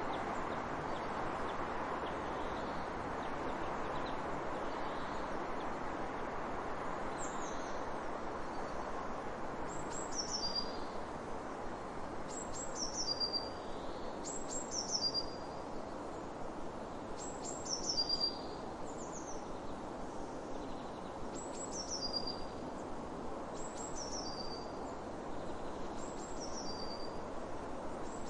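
A bird's short, high call of a few quick notes stepping down in pitch, repeated about every two seconds from several seconds in, over a steady rushing background noise.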